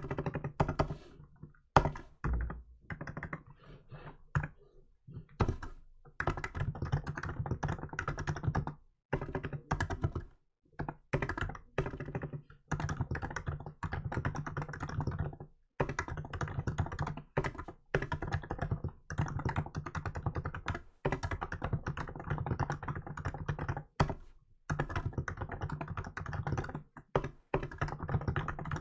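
Typing on a Hansung GK868B electro-capacitive keyboard (Hanmumu): runs of fast keystrokes broken by short pauses, with one louder thunk about two seconds in.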